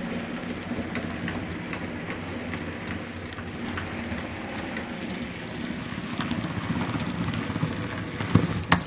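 OO gauge model train running along the layout's track: a steady motor hum with light clicking of wheels over rail joints, and a few louder clicks near the end.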